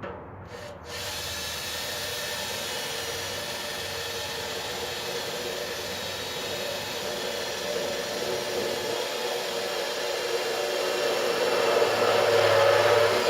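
Electric drill with an 11/16-inch bit boring a hole through the steel wall of a 55-gallon drum, running steadily from about a second in and getting louder near the end.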